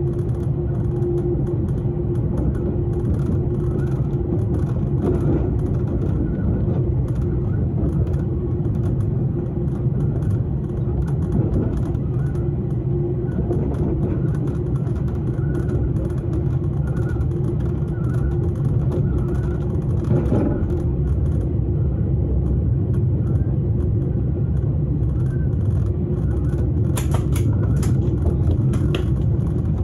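Vienna S-Bahn electric commuter train running, heard from inside the carriage: a steady rumble of the wheels on the track with a steady electric hum over it. A few sharp clicks come near the end.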